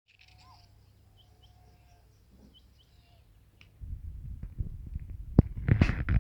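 A few faint bird chirps, then from about four seconds in a loud low rumble with crackling and knocking, like rustling and handling noise right at the microphone.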